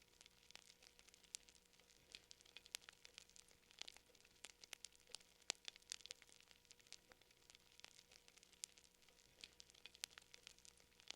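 Fire crackling: faint, irregular pops and snaps, several a second.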